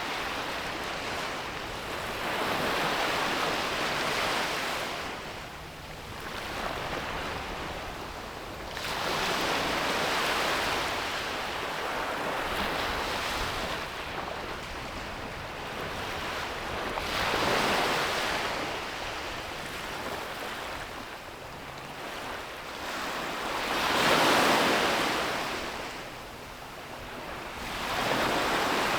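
Ocean waves breaking and washing up the beach, swelling and ebbing in slow surges about one every six or seven seconds.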